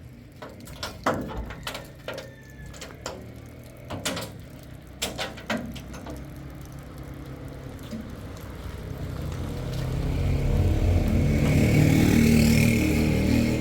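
Scattered knocks and clatters, then a motor vehicle's engine grows louder as it draws near. It is loudest near the end and then starts to fade.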